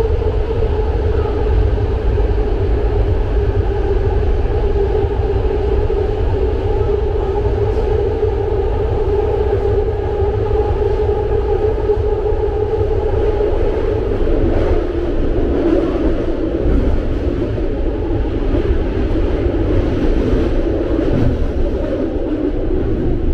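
BART train running: a loud, steady low rumble with a motor whine that drifts slowly down in pitch.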